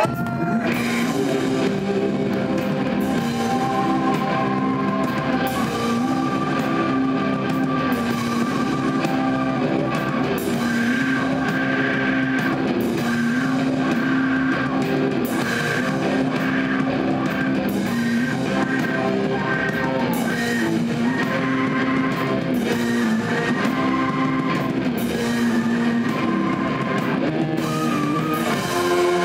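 Live rock band playing an instrumental passage: electric guitar over a drum kit, with a low riff repeating about every two seconds.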